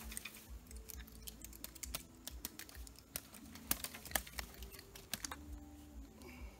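Irregular light clicks and ticks from hands handling fishing line and tackle.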